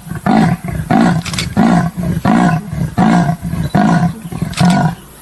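A large wild animal calling in a rhythmic series of low, grunting roars, about eight in a row, roughly one every two-thirds of a second.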